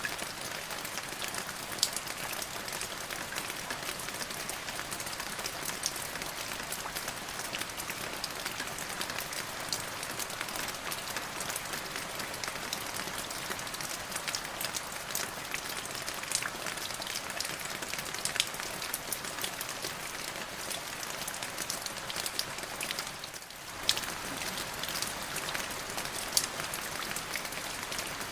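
Steady rain falling, an even hiss with many individual drops tapping sharply on a surface. The sound briefly dips about three-quarters of the way through.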